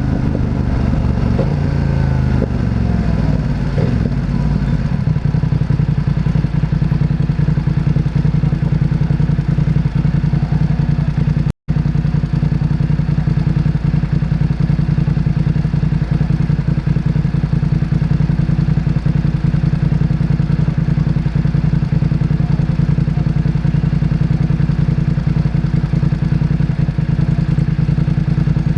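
Motorcycle engine winding down as the bike slows over the first few seconds, then running at a steady low, even beat. The sound cuts out for a split second about a third of the way in.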